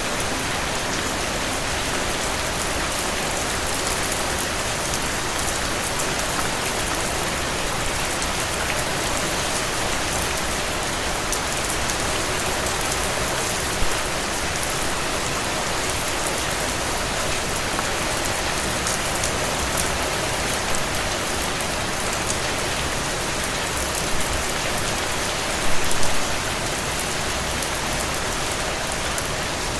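Steady rain falling and pattering on a surface, with many small drop ticks in an even hiss. A few brief louder drops or splashes stand out, the biggest a short cluster near the end.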